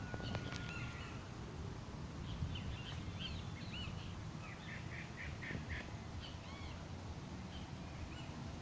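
Birds calling: scattered short chirps, with a quick run of about six notes about halfway through, over a steady low background rumble.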